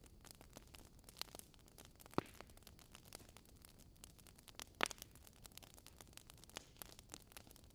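Campfire crackling: quiet, irregular snaps and ticks of burning wood, with two louder pops about two seconds in and again near five seconds.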